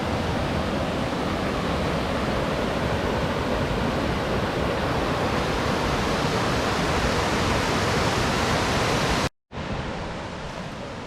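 Waterfall: a steady rush of falling water. About nine seconds in it cuts out for a moment and comes back quieter and duller.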